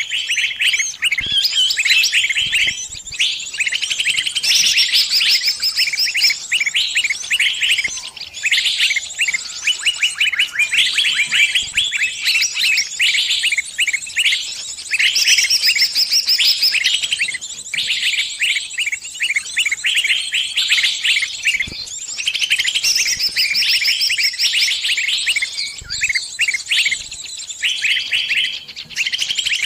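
Small birds chirping rapidly in a dense, unbroken chatter with only brief lulls. These are distress calls of a trapped bird with others answering it.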